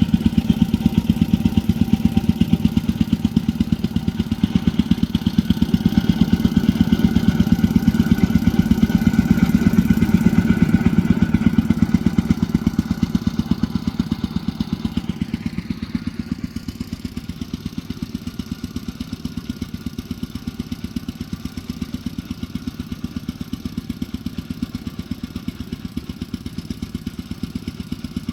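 An engine running with a rapid, even pulse, getting quieter about halfway through.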